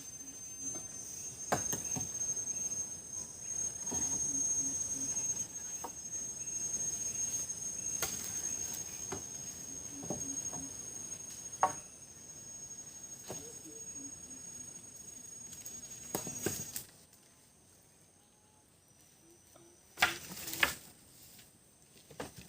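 Forest insects, crickets or cicadas, chirring in one steady high-pitched tone, with scattered knocks and clicks over it. The insect sound cuts off suddenly about seventeen seconds in, leaving a quieter background, and two sharp, loud knocks follow about three seconds later.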